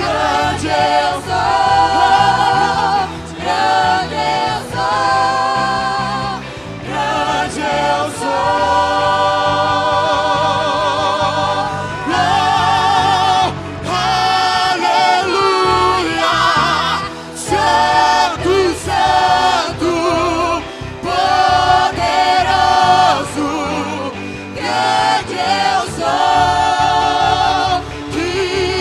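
A choir singing a gospel worship song with instrumental accompaniment, long held notes with vibrato.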